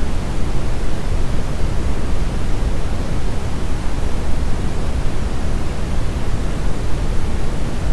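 Steady brown noise: an even, deep rushing hiss, heaviest in the bass and thinning toward the treble, with no changes.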